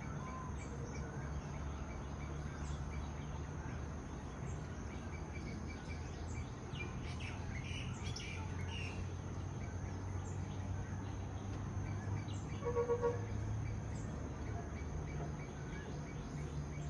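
Wild birds calling: scattered short chirps over a steady low background noise, with a quick run of four or five loud pitched notes about three-quarters of the way through.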